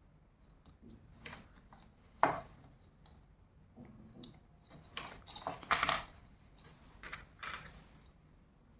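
Small clicks and clinks of LED bulb parts and hand tools being handled, a handful of separate knocks with the loudest cluster about six seconds in.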